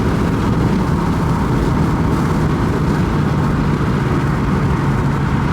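Car engine and exhaust with a muffler delete, running at steady revs: a continuous low drone with one held tone.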